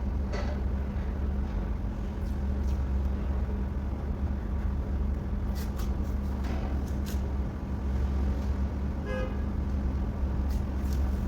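Steady low mechanical hum, like a running engine or machine, with a few scattered clicks and knocks and a brief buzzing tone about nine seconds in.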